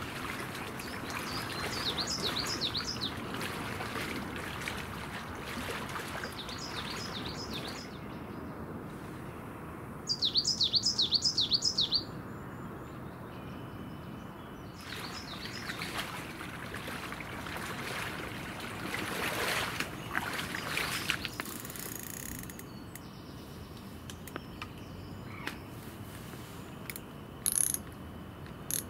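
A small songbird singing short phrases of quick, high notes, repeated several times, loudest about ten seconds in, over a steady outdoor hiss. A few short clicks near the end.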